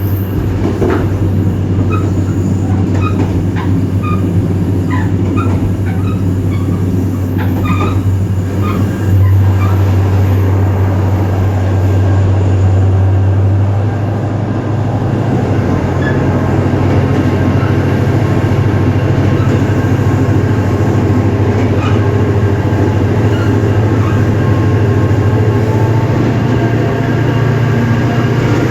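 EMD GT26CW-2 diesel locomotive's 16-cylinder two-stroke engine running under load with a loud, steady low drone that gets louder about a third of the way in and steps up in pitch about halfway through, as the throttle is notched up. Short high squeaks and clicks from the wheels on the rails come through during the first third.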